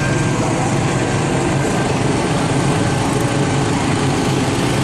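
A vehicle engine running steadily with a low hum, loud and unbroken.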